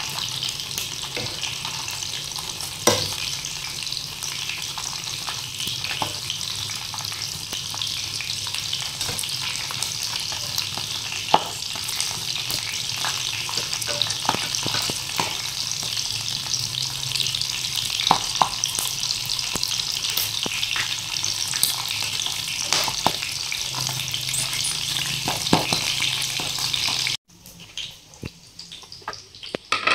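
Skewered sausages frying in oil: a steady sizzle with scattered sharp clicks and pops. The sizzle cuts off suddenly about 27 seconds in, leaving a few faint clinks.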